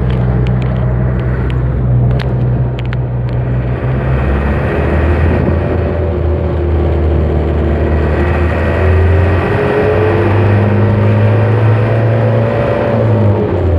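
Truck engine running steadily under way, its hum stepping to a different pitch a few times as the engine speed changes. A few sharp ticks sound in the first few seconds.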